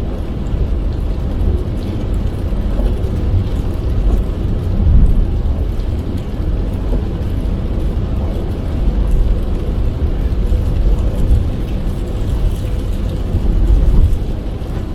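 A car driving in heavy rain: a steady low rumble of tyres and engine on the wet road, with the hiss of rain on the car.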